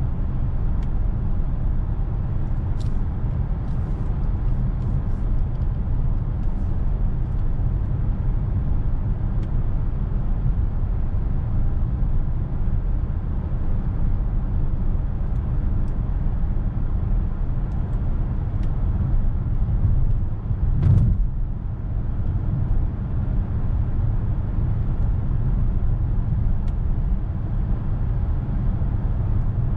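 Steady low rumble of road and tyre noise inside the cabin of a DS 9 E-TENSE 225 plug-in hybrid on the move, with a few faint clicks early on and a single louder thump about two-thirds of the way through.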